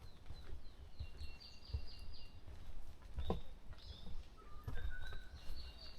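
Wild songbirds singing in a forest at dawn. A high song of quick repeated notes comes and goes three times, with a few lower notes near the end. Soft low thumps sound underneath.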